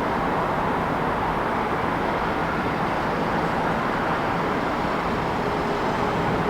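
City traffic noise: a steady, even wash of vehicles on the road, with no single event standing out.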